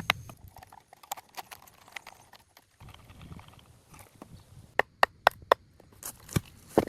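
Sharp knocks in short runs, about four a second, the loudest run about five seconds in and another starting near the end.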